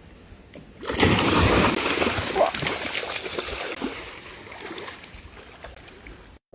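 A sudden heavy splash in water about a second in, followed by water sloshing that slowly dies away, then cut off abruptly near the end.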